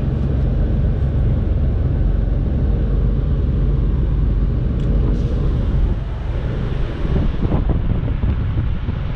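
Semi truck's diesel engine running with a steady low rumble, with strong gusting wind buffeting the microphone; the level eases a little about six seconds in.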